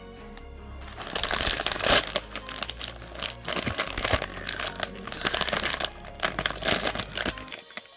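Crinkly plastic packaging being handled and unwrapped by hand: a dense run of crinkling and rustling that starts about a second in and stops shortly before the end.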